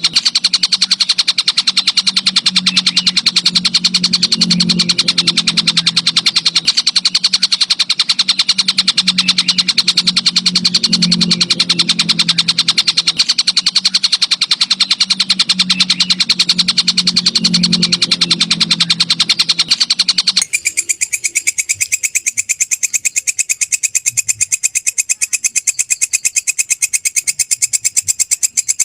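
Looped recording of animal calls, a continuous, very even train of rapid high chirps, played as song-training material for shamas. About twenty seconds in it cuts abruptly to a thinner, higher-pitched stretch of the same rapid chirping.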